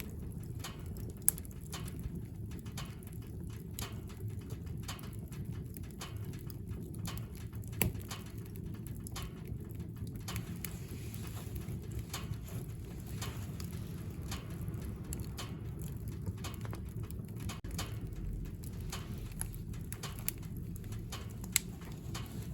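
Wood fire burning in a wood stove: a steady low rumble with scattered crackles and a few sharper pops of burning firewood.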